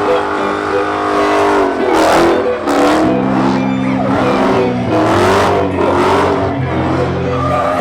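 Car engine revving hard, its pitch climbing and dropping again and again.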